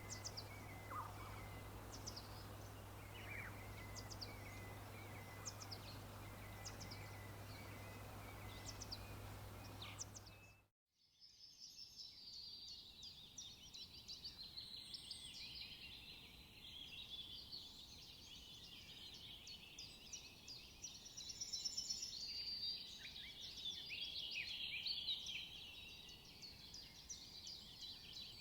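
Birds calling: scattered short, high, falling chirps over a low steady hum. After a brief break about eleven seconds in, a dense chorus of many birds singing at once.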